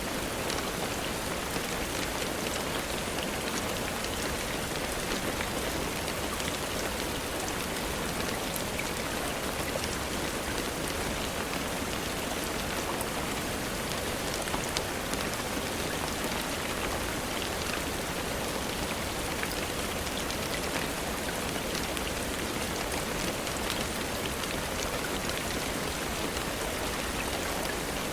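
Steady rainfall, an even hiss of falling rain with scattered faint ticks of individual drops.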